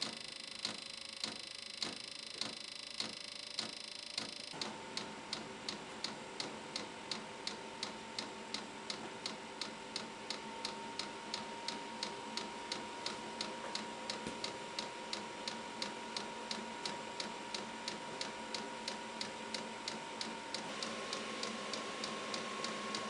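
Diesel heater's fuel dosing pump ticking in a steady rhythm during the heater's start-up sequence. The ticks quicken from under two to about three a second about four and a half seconds in. At the same moment a steady whine from the heater starts, creeps up in pitch and steps higher near the end.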